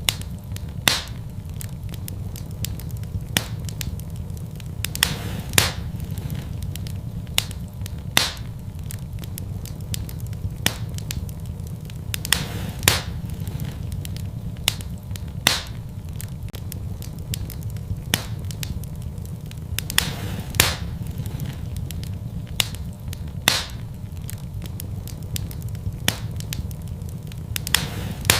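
Fire burning in a fireplace: a steady low rumble of flame with sharp crackling pops every second or two.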